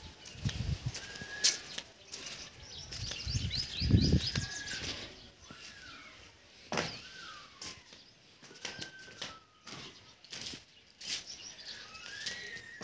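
Birds calling: short downward whistles repeated every second or two, with higher chirps, over scattered clicks and knocks. A low rumble comes about four seconds in.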